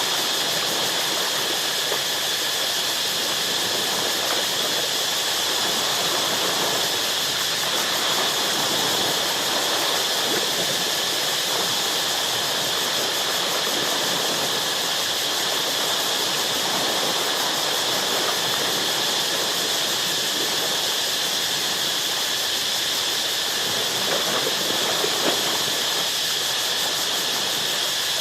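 Ocean waves washing against rocks in a steady rushing wash that swells briefly near the end, under a steady high drone of jungle insects.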